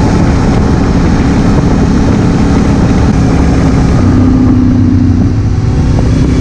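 2016 Honda Africa Twin CRF1000L's parallel-twin engine running steadily while the bike is ridden, with a steadier low hum settling in about two-thirds of the way through.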